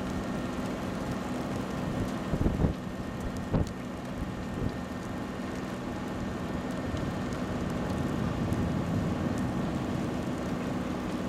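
Steady rain falling on a vehicle, heard from inside, over a low steady hum from the vehicle. There are a few knocks about two and a half and three and a half seconds in.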